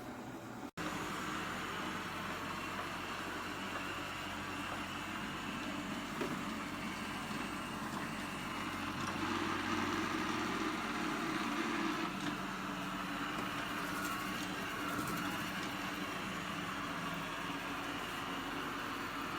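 eufy RoboVac 11S robot vacuum running, a steady whirr of its suction motor that swells slightly midway, after a momentary break just under a second in.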